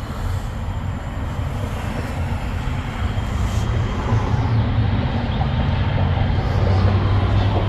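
Steady mechanical drone: a constant low hum under an even hiss, growing a little louder in the second half.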